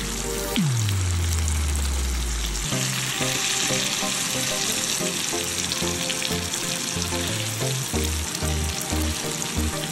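Fish and tomatoes sizzling steadily in hot oil in a nonstick frying pan, with light clicks now and then. Background music plays underneath, with a falling bass swoop about half a second in and then a bass line.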